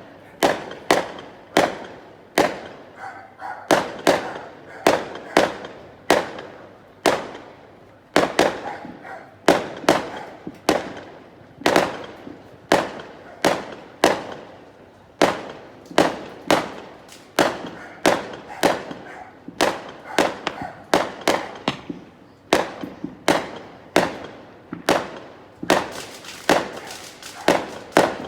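Fireworks display: a continuous run of sharp bangs, about one or two a second, each with a short echoing tail.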